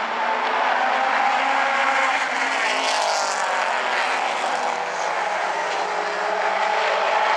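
A field of late model stock cars racing past on a short oval, many engines sounding at once at full throttle, with overlapping pitches rising and falling as the cars pass.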